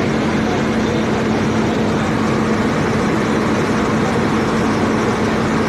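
Truck on the move: a steady engine drone and road noise, with a constant low hum and no change in pace.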